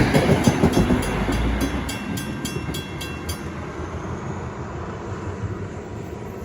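Train passing over a level crossing, its rumble fading away, while the crossing's Western Cullen Hayes 333 mechanical bell strikes about four times a second and then stops about three seconds in.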